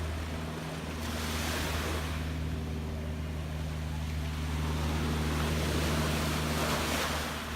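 Gentle sea waves washing in slow swells, building about a second in and again midway. A steady low hum, like a distant motor, runs underneath.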